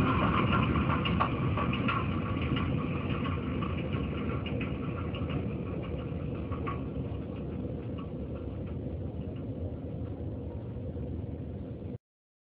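Train rumbling away down the track, heard from between the rails, fading steadily, with scattered clicks from the wheels on the rails. It cuts off suddenly near the end.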